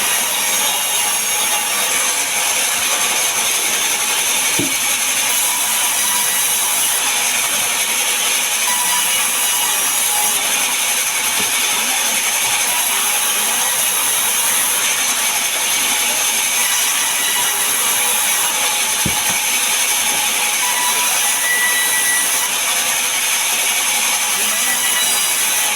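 Power saw cutting timber, a steady loud noise that goes on without a break.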